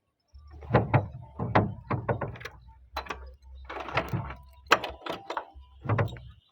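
An irregular series of about a dozen sharp knocks and clunks, some with a heavy low thud, coming in uneven clusters.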